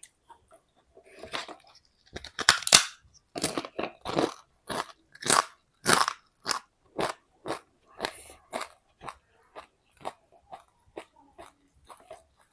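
Close-miked chewing of a crisp, crunchy food: a run of loud crunches, about two a second, strongest in the first half and growing softer toward the end.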